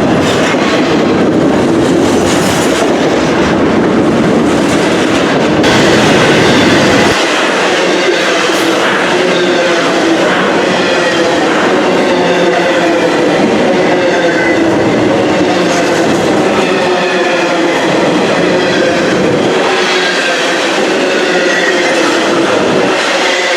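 A passing train's cars rolling by on the track, wheels clattering over the rails. The deep rumble drops away suddenly about seven seconds in, leaving the higher rolling and clacking noise.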